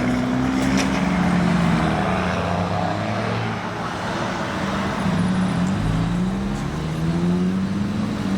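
A car engine revving, its pitch dropping and climbing several times.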